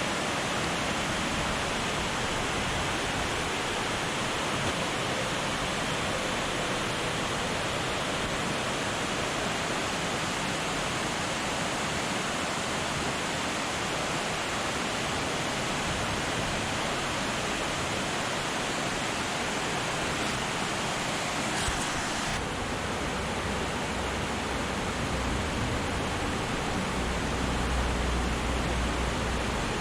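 Waterfall rushing in a steady, even hiss of falling water, with a low rumble near the end.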